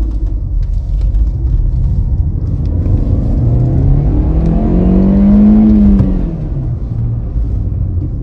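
2019 Chevrolet Spark's 1.4-litre four-cylinder engine pulling under acceleration. Its note rises steadily in pitch from about three seconds in, is loudest around five and a half seconds, then drops back as the revs fall.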